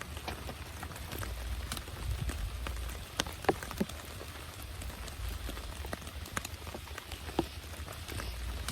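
Heavy rain falling steadily, with scattered sharper drop hits on a nearby surface; a few of the loudest hits come a little over three seconds in.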